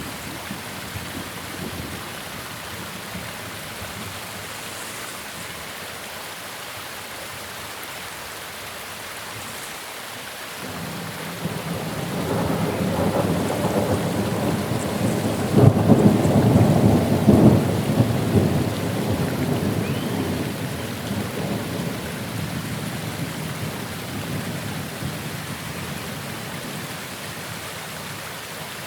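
Steady rain hissing, with a long roll of thunder that builds about ten seconds in, is loudest in the middle, then rumbles away over several seconds.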